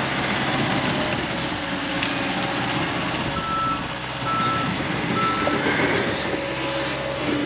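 John Deere 650K crawler dozer's diesel engine running under load, with its backup alarm beeping three times about a second apart near the middle as the machine reverses.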